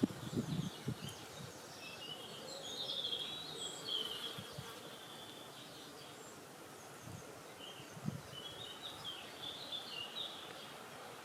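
Small birds chirping in short twittering phrases over a steady hiss of wind, with a few brief low rumbles of wind on the microphone in the first second and again about eight seconds in.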